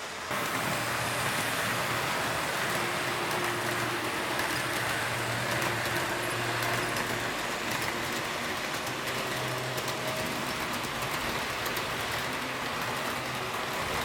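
HO-gauge model train, an EF58 electric locomotive model hauling baggage cars, running on the layout: a steady rolling rush with a faint motor hum and light clicking of wheels over the rail joints. It jumps louder just after the start.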